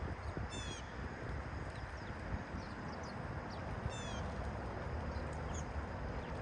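Backyard bird calls: a short harsh call with several stacked notes comes about half a second in and again about four seconds in. Faint high chirps from other birds sound over a steady background hiss.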